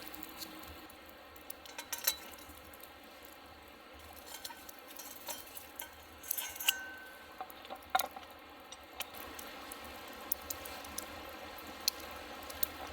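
Camp cooking and eating sounds: scattered light clinks and taps of cookware and tableware over a steady soft sizzle-like hiss, with a couple of sharper clinks about six and a half and eight seconds in.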